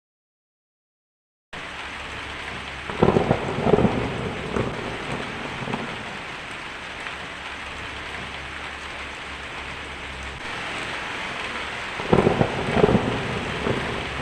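Steady rain, with two rolls of thunder, each a cluster of cracks lasting about two seconds, about three seconds in and again about twelve seconds in. The rain starts after about a second and a half of silence.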